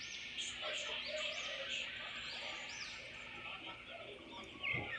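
Many small birds chirping together, a dense chorus of short, high, quickly repeated chirps. A single dull thump comes near the end.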